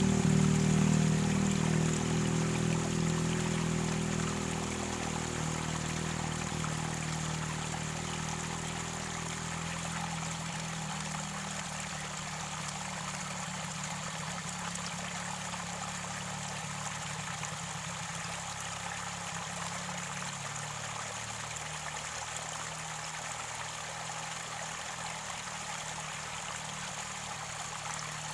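Mountain river water near its source, flowing and gurgling steadily. A low engine hum, likely from a passing vehicle, fades away over the first ten seconds or so.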